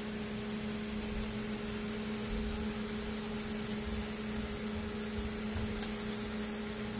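Steady hiss of chopped onions, tomatoes and spice powder frying gently in a pan, over a steady low hum.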